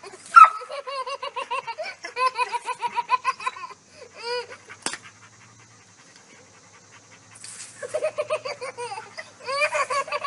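A baby laughing in rapid runs of high-pitched giggles, with a pause of a few seconds in the middle before the laughter starts again. A sharp knock about half a second in is the loudest sound.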